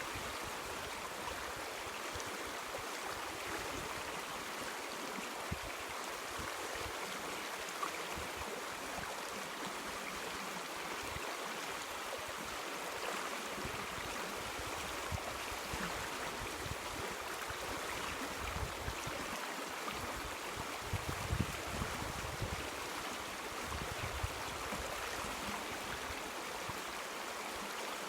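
River water rushing and babbling steadily over stones, with irregular low gurgles and splashes.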